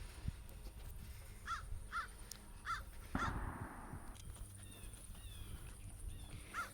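A bird calling outdoors with four short, evenly repeated calls in the first half, followed by a brief rustle.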